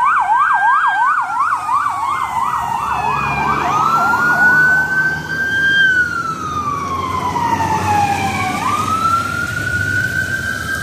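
Fire department emergency vehicle sirens sounding on a response. A fast yelp fades out a few seconds in and gives way to slow wails that rise and fall, with more than one siren sounding at once.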